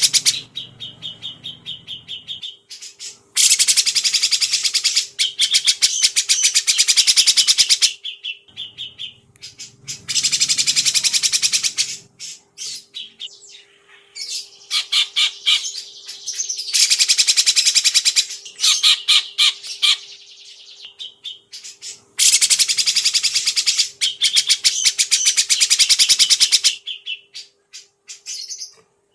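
Songbird singing loud, harsh phrases of very rapid rattling notes, each burst lasting two to four seconds, broken by softer, sparser notes between them. A faint steady hum runs underneath.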